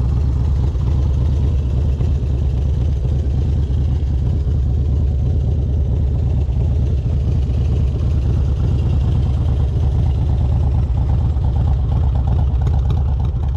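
Harley-Davidson Road King's V-twin engine, fitted with an S&S 95-inch big-bore kit and Super Stock cylinder heads, running steadily.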